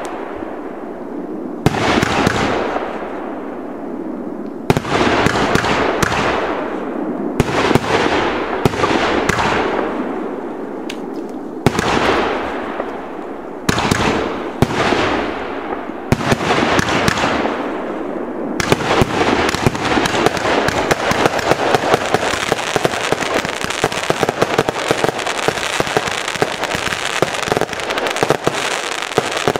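Nova Fireworks 'Big Boy' multi-shot firework going off shot after shot: about a dozen separate bangs, each followed by a fading hiss as the burst burns out. About 18 seconds in it turns into a continuous dense crackle of rapid pops.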